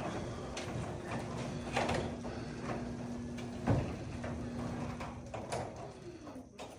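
Sectional garage door travelling along its tracks on newly installed rollers, running smoothly. A steady low hum carries through, with a few knocks, the loudest about two-thirds of the way in, and the sound fades out near the end.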